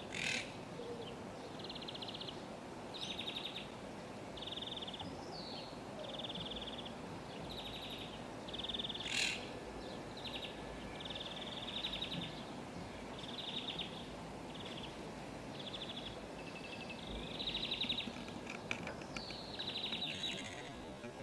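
Parrots calling over and over: short, buzzy, rasping calls about once a second. A few sharper, louder calls stand out, the loudest about nine seconds in. Steady background noise runs underneath.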